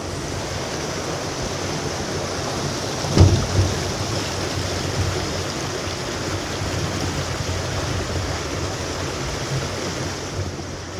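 Rushing river water of a shallow, rocky rapid, a steady rush, with a single sharp thump about three seconds in.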